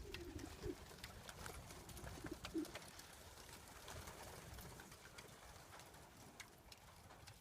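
Racing pigeons cooing faintly, a few short low coos in the first three seconds, with scattered faint ticks.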